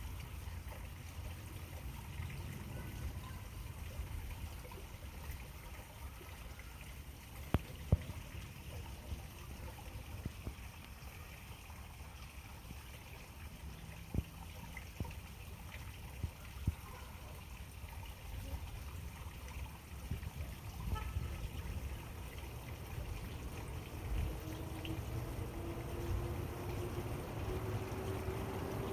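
Quiet pondside ambience: a steady low rumble with faint trickling water and a few sharp clicks. Near the end a motor's hum comes in, slowly rising in pitch.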